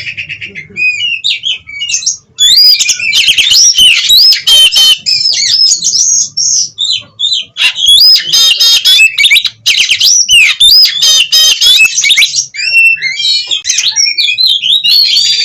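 Oriental magpie-robin (kacer) singing loudly and almost without pause in an excited, full-volume run: fast rising and falling whistles mixed with harsh, scratchy notes. The song breaks off briefly a couple of seconds in.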